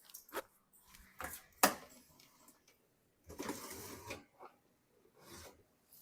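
Cast iron skillet being taken out of an oven: a few sharp metal knocks in the first couple of seconds, then a scraping rub, as of the skillet or oven rack sliding, a little past halfway, and a fainter one near the end.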